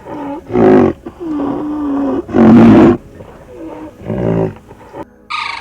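An animal calling repeatedly: a series of roaring and moaning calls, some bending in pitch, the loudest and harshest about halfway through. Just before the end a different, higher-pitched animal sound cuts in.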